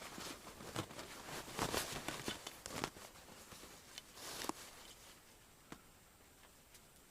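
A person moving about in snow: irregular crunching and rustling for the first few seconds, then quieter, with a few faint clicks near the end.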